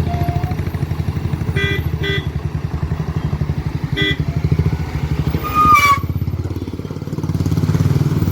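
Heavy truck's diesel engine running at low revs with a deep, steady throb, easing off and building again near the end. Short high chirps come a few times, and a brief squeal rising in pitch cuts in about two-thirds of the way through.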